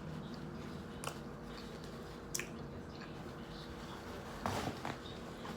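A person chewing a mouthful of grinder salad sandwich close to the microphone, with wet mouth sounds and a few sharp smacks; the loudest, a quick run of them, comes about four and a half seconds in.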